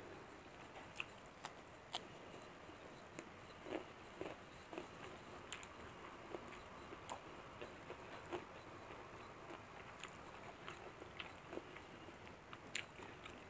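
Close-up chewing of a mouthful of rice and curried chicken liver, with soft wet mouth clicks scattered throughout.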